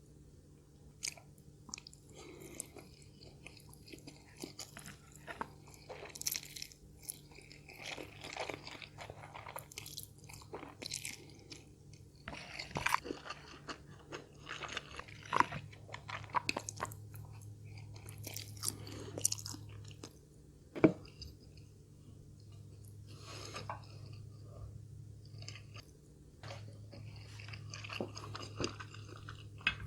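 A person chewing and crunching food close to the microphone, with irregular bites scattered through.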